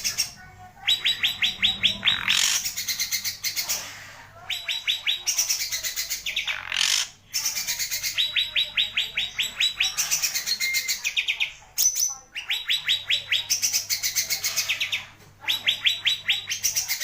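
A cage songbird singing hard and continuously: long phrases of rapid, high-pitched repeated notes, each lasting a few seconds, with short pauses between them.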